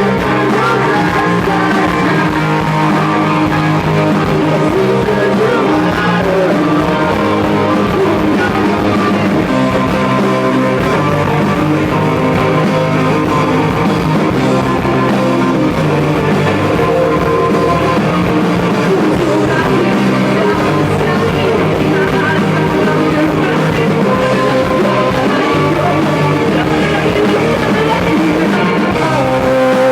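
Rock band playing a song live, with guitar to the fore at a steady loudness.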